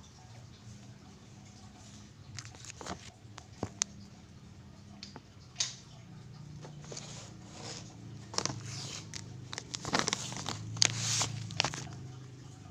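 Irregular crunches, clicks and rustles from hands working with food and utensils, getting busier and louder in the second half.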